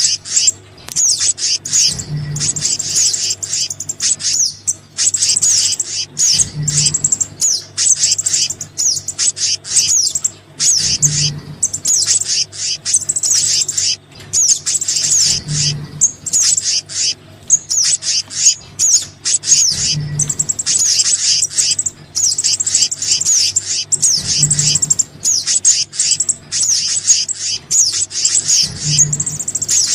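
A bird-lure recording of small-bird calls, sogon and kehicap mixed, plays as an unbroken stream of rapid, high-pitched chirps and trills. A short low thump repeats about every four and a half seconds, showing the track is looped.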